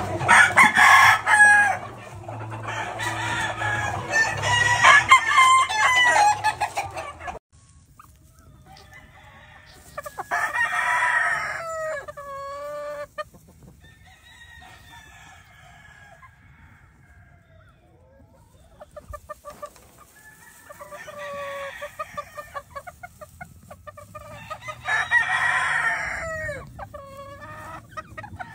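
Brassback Butcher gamefowl roosters crowing again and again, each crow ending in a falling tail, with hens and roosters clucking. The first stretch is busier, with many birds calling over a low steady hum, and it cuts off abruptly about seven seconds in; after that single crows come one at a time.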